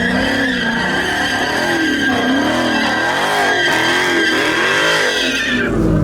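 A car's tires squealing under power in one long steady screech while its engine revs up and down over and over, as in a burnout or donuts; the squeal cuts off shortly before the end.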